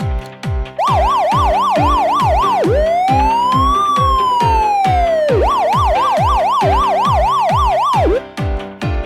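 Electronic siren sound effect over background music with a steady beat: a fast yelp warbling about four times a second, then one slow rise and fall, then the fast yelp again, cutting off about a second before the end.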